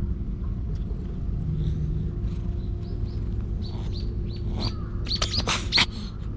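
Small birds chirping: short, falling chirps begin about two seconds in and come faster, ending in a loud flurry of calls near the end, over a low steady rumble.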